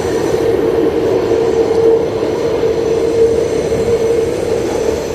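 New York City subway train running through the station with a dense rumble and a steady tone, easing off near the end.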